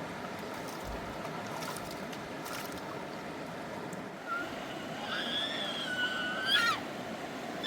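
Steady rushing of a fast river. About halfway through, a high, wavering vocal sound rises over it for a couple of seconds.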